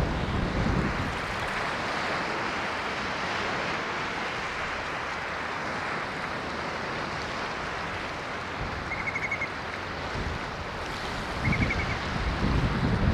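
Ocean waves washing onto the shore in a steady hiss of surf, with low wind rumble on the microphone near the end. Two brief high chirps sound over it, about two and a half seconds apart.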